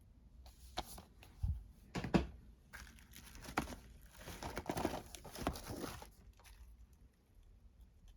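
Packaging being torn and crinkled by hand, in a run of rustling bursts with a few sharp knocks, lasting about six seconds.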